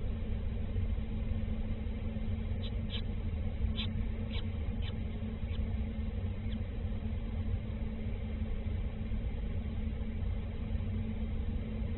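A steady low hum, with a run of about seven short, high bird chirps from about two and a half seconds in, growing fainter over a few seconds.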